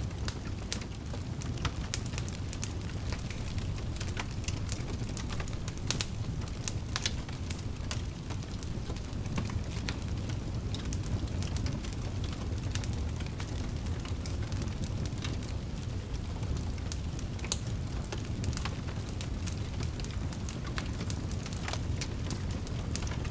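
Wood fire in a fireplace crackling and popping, with a steady low rumble of the flames under frequent sharp crackles.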